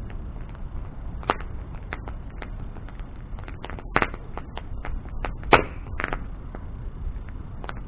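Wood bonfire burning, popping and crackling irregularly over a low steady rumble of the flames, with a few louder sharp pops, the loudest about five and a half seconds in.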